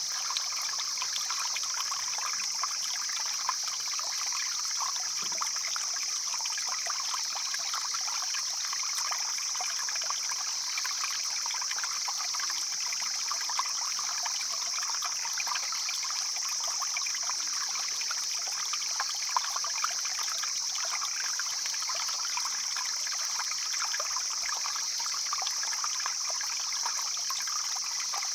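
Mountain stream flowing steadily over rocks, an even, bright rushing of water.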